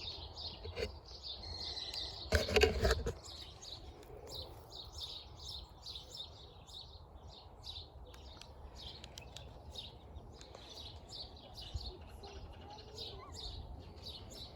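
Small birds chirping steadily in quick short notes, several a second, over a low rumble of wind on the microphone. About two and a half seconds in there is a brief loud bump or rustle.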